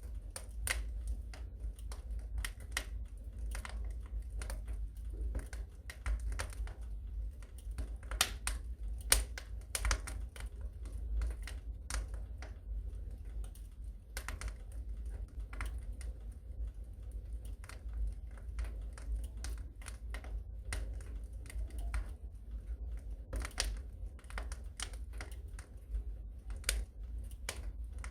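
Wood fire crackling in a fireplace: irregular pops and snaps, a few louder ones, over a low steady rumble.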